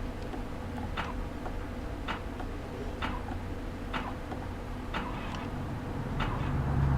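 Sharp clicks about once a second inside a minivan, over a steady low hum. About six seconds in, a low rumble starts to build.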